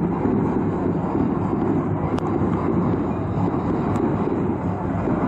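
Heavy rain with wind buffeting the microphone: a steady low rumbling noise, with two faint clicks partway through.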